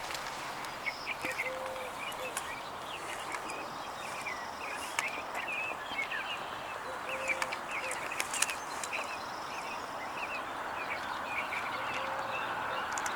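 Small birds chirping in many short, quick notes over a steady outdoor background hiss, with three brief low notes spaced several seconds apart.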